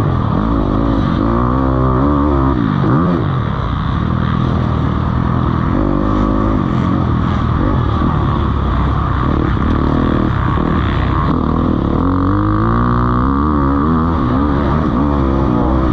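Several motocross bikes racing, their engines revving up and falling back again and again, overlapping one another.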